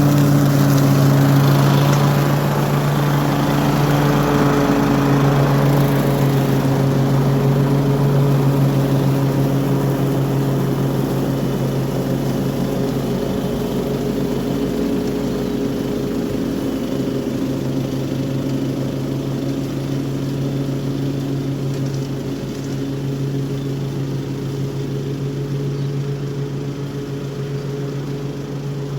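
Toro HDX 30-inch self-propelled walk-behind mower with a mulching kit, its engine running steadily under load while cutting grass. It is loud and even, gradually growing a little quieter.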